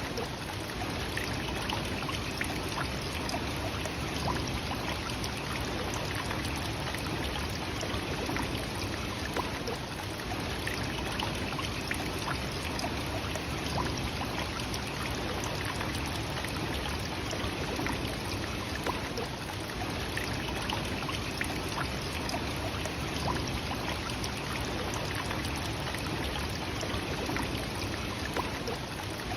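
The waterfall Nachi Falls falling steadily: a continuous, even rush of water with no change.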